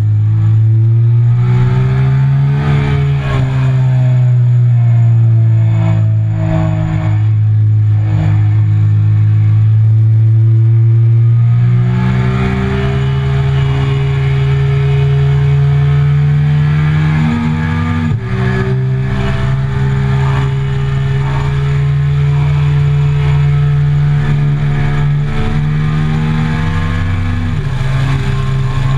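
Triumph Speed Triple 1050's three-cylinder engine running hard under load, its pitch holding through corners and stepping with brief dips at gear changes as speed climbs. Wind rushes over the bike-mounted microphone, louder from about halfway through.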